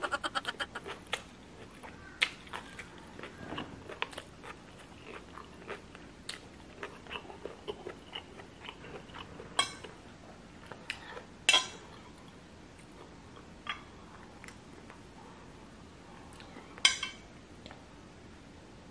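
Chewing and wet mouth sounds from eating rice noodles (bihon), with small lip smacks. A few sharper clicks stand out, the loudest about halfway through and again near the end.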